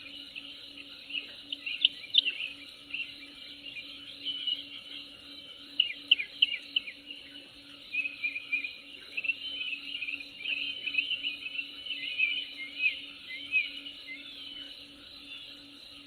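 Birds chirping in short, quick calls, in clusters about two, six and eight to thirteen seconds in, over a steady insect chorus.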